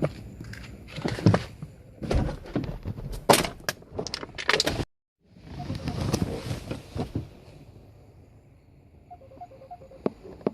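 Irregular knocks, thuds and rustling handling noises, which break off abruptly about five seconds in. After a couple more seconds of thuds it goes quiet, with a few faint short beeps near the end.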